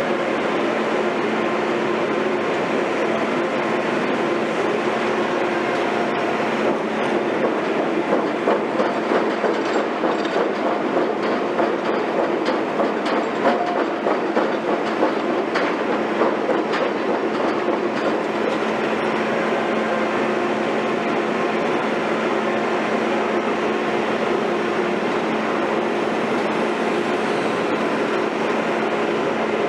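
Heavy diesel construction machinery running steadily, with a stretch of clanking and rattling in the middle.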